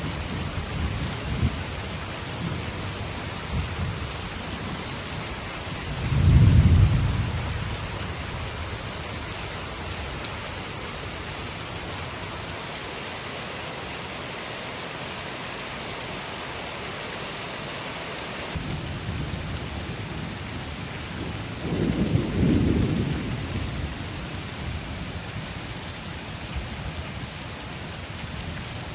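Heavy rain falling steadily, with low thunder rumbling twice: once about six seconds in and again a little past twenty seconds, the first rumble being the loudest.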